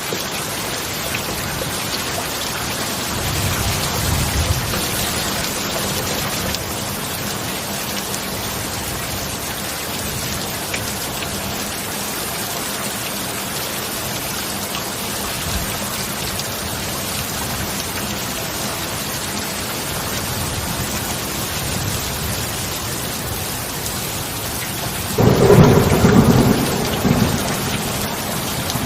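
Heavy steady rain. A low thunder rumble swells a few seconds in, and a loud thunderclap breaks about 25 s in and rolls off over the next few seconds.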